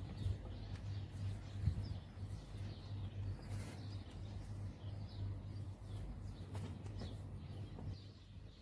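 Bulbuls giving short, scattered chirps over a steady low hum.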